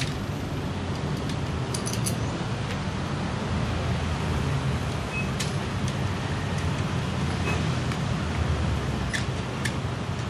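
Datsun GO+ three-cylinder petrol engine running steadily during a combustion-chamber decarbonizing treatment, a low even drone with a few faint clicks over it.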